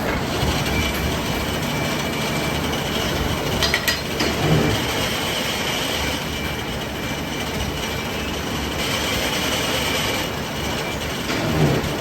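Metalworking machinery running steadily in a workshop, with a faint high whine and a few metallic knocks, about four seconds in and again near the end.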